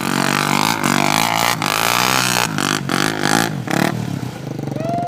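Motorcycle engine revving up and down again and again, with clattering knocks mixed in.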